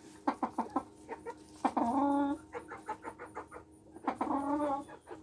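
Polish chickens clucking: a run of short, quick clucks, broken by two longer drawn-out calls, about two seconds in and near the end.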